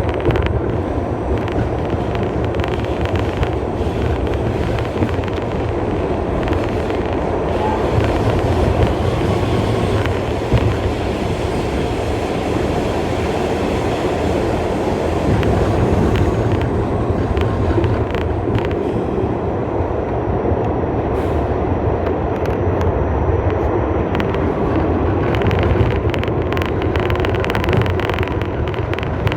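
R68 subway train running at speed: a steady rumble of steel wheels on rail with occasional clicks over rail joints and a faint whine that slowly drops in pitch.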